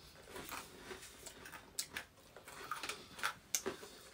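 Eating sounds: chewing and wet lip smacks of someone eating chicken wings, heard as a scatter of short, sharp clicks, the loudest in the second half.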